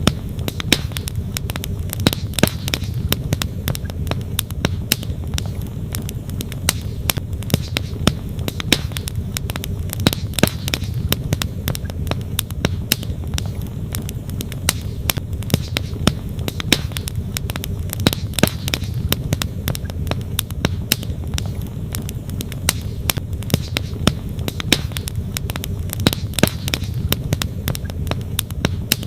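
Wood campfire crackling, with frequent irregular sharp pops and snaps from the burning logs, over a steady low rush of flowing creek water.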